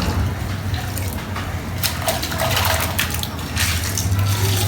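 Water gushing and splashing onto a soaked carpet in uneven surges, loudest about two to three seconds in, over a steady low machine hum.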